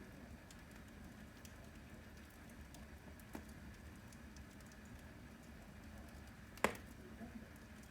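Wood fire burning in a fireplace, crackling faintly with scattered small ticks, a light pop about halfway through and a louder sharp crack near the end.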